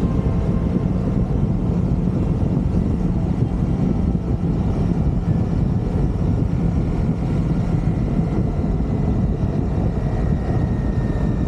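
Motorcycle running steadily at road speed, with a continuous rush of wind on the microphone.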